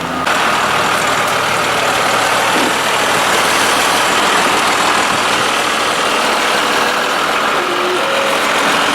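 Heavy diesel farm machinery, tractor and loader engines, running steadily and loudly.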